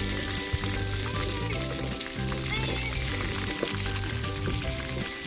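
Splash pad water jets spraying in a steady hiss, with music playing underneath.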